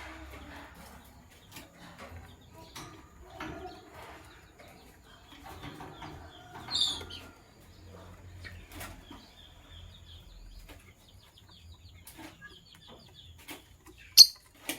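Lovebirds moving about, with scattered small clicks and rustles. A short, high chirp comes about seven seconds in, and a single sharp click near the end is the loudest sound.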